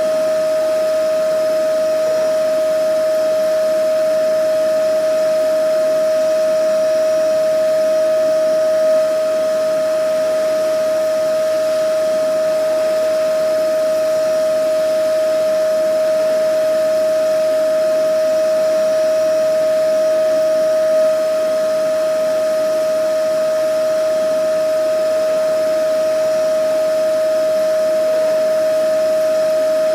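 Vacuum cleaner running steadily: a constant high motor whine over a rush of air, unchanging throughout.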